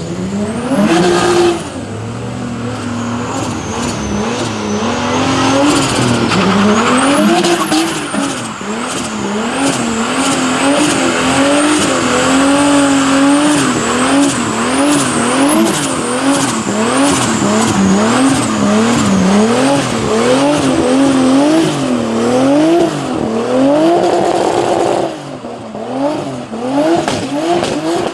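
Car engine revving up and down in repeated swings, about once a second, over a steady hiss of tyres squealing: a burnout.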